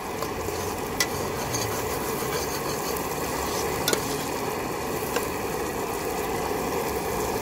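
Sliced onions and ginger frying in oil in a steel pot, sizzling steadily while a metal ladle stirs them and clinks against the pot three times.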